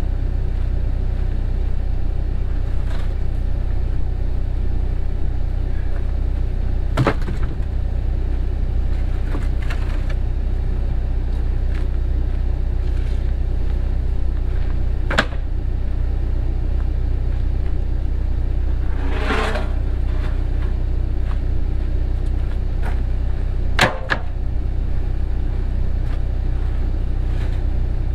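Cat 307 mini excavator's diesel engine running steadily, with a few sharp knocks and a short scraping burst partway through from the machine at work.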